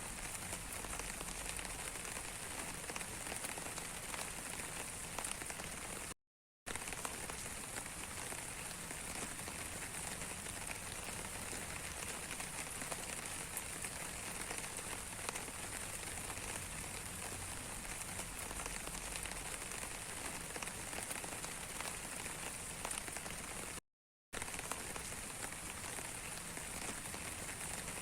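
Steady rain falling, many small drop ticks in an even hiss. It cuts out completely for about half a second twice, once about six seconds in and once near the end.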